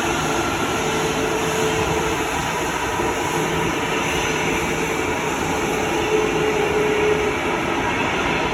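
Jet airliner's engines running steadily, a broad rushing noise with a faint steady whine.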